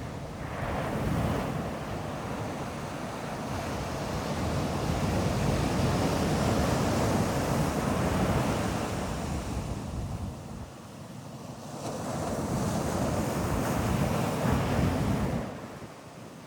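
Ocean waves breaking and washing up a beach: two long surges of surf, the first building from about half a second in and dropping off around ten seconds, the second swelling again and fading shortly before the end.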